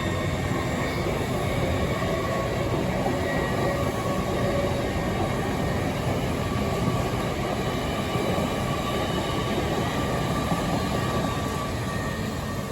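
A train running close by, a steady rumble with several held high tones over it, easing off near the end.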